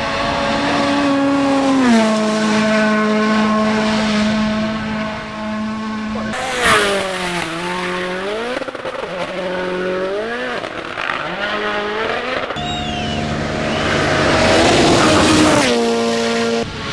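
Rally1 cars' turbocharged four-cylinder engines running at full throttle: high steady revs that step down on gear changes, a sharp dip and climb near the middle as the car slows and accelerates again, and abrupt switches between cars.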